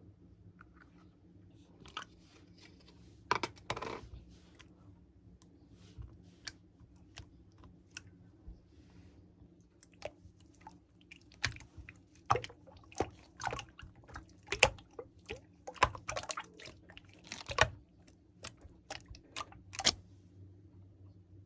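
Irregular sharp clicks and crunchy taps: a few scattered ones at first, then more frequent from about halfway through, over a faint steady low hum.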